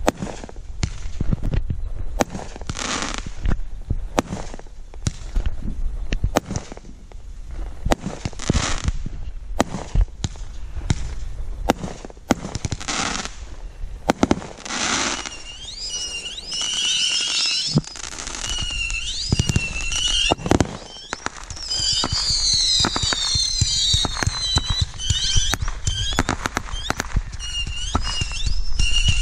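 Fireworks going off in a continuous barrage of sharp bangs and hissing bursts. From about halfway, whistling fireworks start to shriek again and again, and near the end many whistles overlap and the barrage grows louder.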